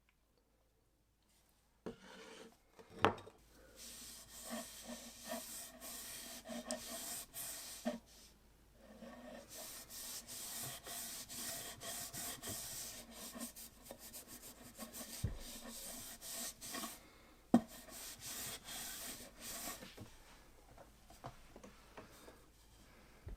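Cloth rag rubbing oil into a freshly carved oak axe handle, in long stretches of rubbing with short pauses. Two sharp knocks of the wood break in along the way.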